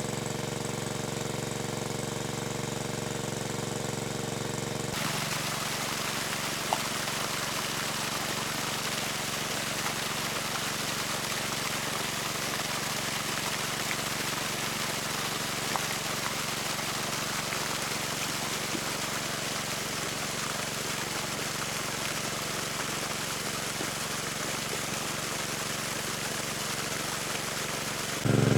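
A small engine running steadily. About five seconds in, a steady rush of water starts over it.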